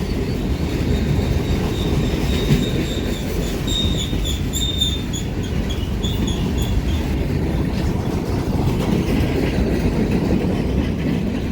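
Union Pacific freight cars rolling past on steel wheels with a steady rumble and rail clatter, and a high, pulsing wheel squeal from about two and a half to seven seconds in as the train drifts down the grade.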